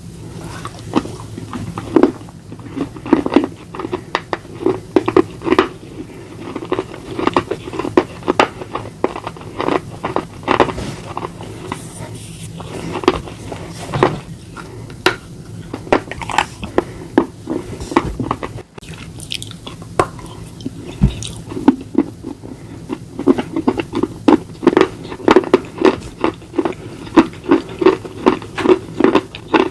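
Slate being bitten and chewed close to the microphone: a long run of sharp crunches, often several a second.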